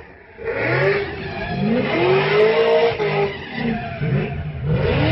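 An old pickup truck's engine being revved repeatedly, its pitch rising in several blips and falling back between them.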